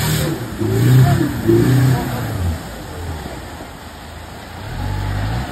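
Engine of an off-road 4x4 revving hard in surges as it pushes through a muddy creek gully, easing back after about two seconds and then revving up again near the end.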